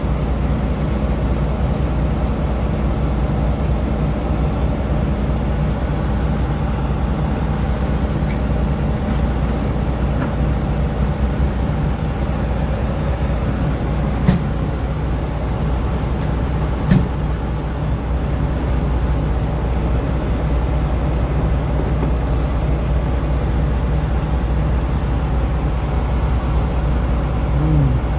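Box truck engine running with a steady low drone. Two short sharp clicks come about halfway through, a few seconds apart.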